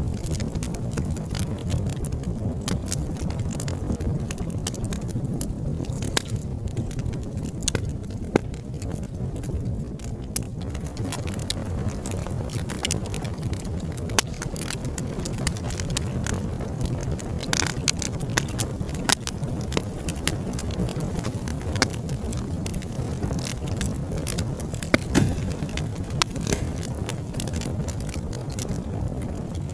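Wood fire burning, a steady low roar of flames with frequent crackles and sharp pops of burning logs; a few louder pops about 8, 10, 18 and 25 seconds in.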